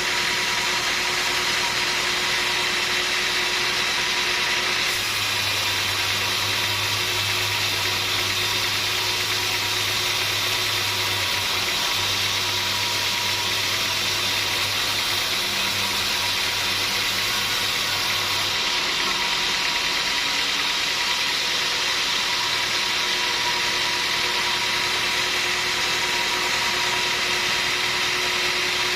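Sawmill machinery running steadily, a constant mechanical drone with a few steady tones in it. The sound shifts slightly about five seconds in and again past the middle.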